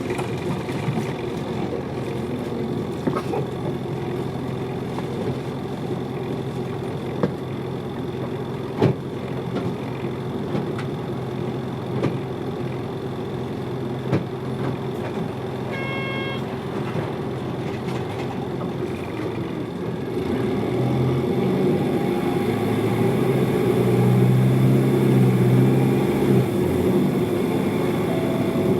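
Hino Liesse bus on the move, heard from inside the cabin: a steady diesel engine drone with occasional rattles and knocks, and a brief electronic tone about halfway through. From about two-thirds of the way in the engine grows louder and deeper as it pulls harder, on a steep gradient.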